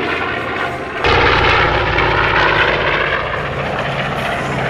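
North American B-25D Mitchell's twin Wright Cyclone radial engines droning in flight as the bomber climbs, the sound stepping up suddenly about a second in and then holding steady and loud.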